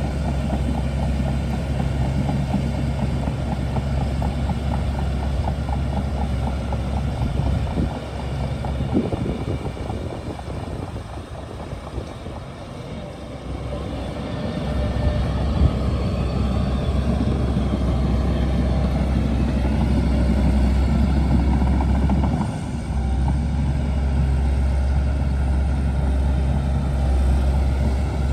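Shantui DH17C2 bulldozer's diesel engine running steadily at work. Its low note falls away for several seconds in the middle and then comes back up strongly, with a couple of brief knocks.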